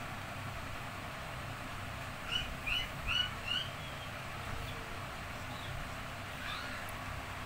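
Four quick high chirps in a row, small-bird-like, a little over two seconds in, and a fainter chirp near the end, over a steady background hiss.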